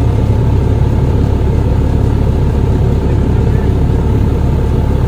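Steady low rumble of vehicle engines, loud and unchanging.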